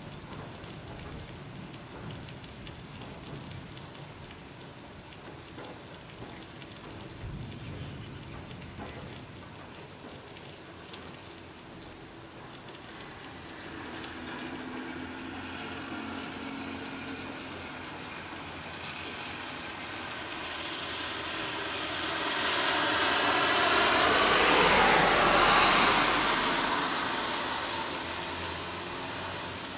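Steady rain falling, with a passing vehicle's noise that swells to its loudest about 25 seconds in and then fades away.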